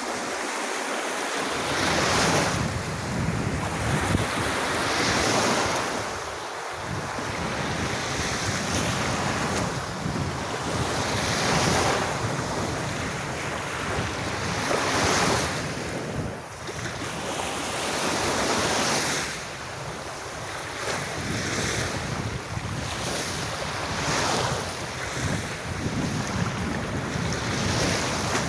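Sea waves breaking and washing up a sandy beach, a steady surf with swells every few seconds, with wind buffeting the microphone.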